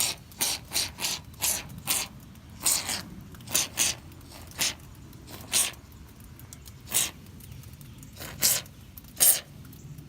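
Can of expanding insulation foam spraying in short, irregular hissing spurts, about a dozen, as foam is dispensed into the gap around a window opening.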